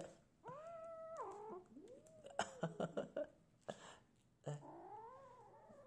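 Young kitten giving three drawn-out, wavering warning cries while guarding a piece of chicken breast, the first held level and then falling. A run of short sharp clicks comes in the middle.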